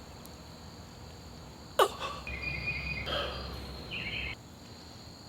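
Crickets chirping steadily. About two seconds in comes a short, sharp squeak falling in pitch, followed by a couple of seconds of rustling.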